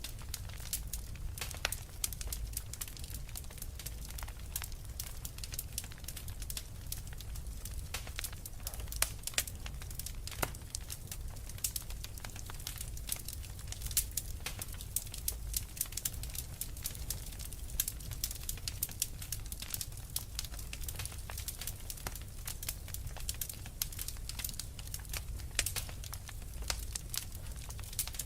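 Wood fire crackling in a fireplace: a constant scatter of small snaps with occasional louder pops, over a steady low rumble.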